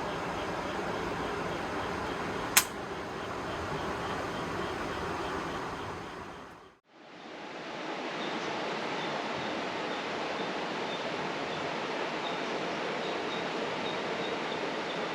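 Steady rush of running water from the river and rain, with one sharp pop about two and a half seconds in. The water noise fades away briefly about seven seconds in, then comes back.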